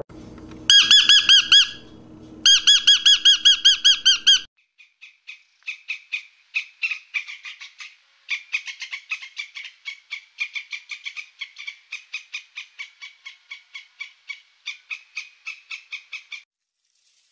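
A parrot squawking in two loud bursts of rapidly repeated calls, then a squirrel chattering: a long series of quick, sharp chips, about five a second, in short runs.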